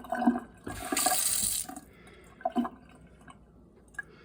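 Glacier Bay single-handle kitchen faucet turned on and run into the sink for about a second, then shut off, with a few light knocks afterwards.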